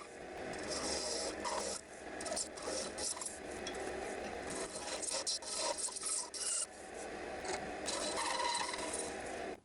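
Wood being rubbed or rasped by hand with an abrasive or tool: an uneven, continuous scratchy rubbing that cuts off abruptly at the very end.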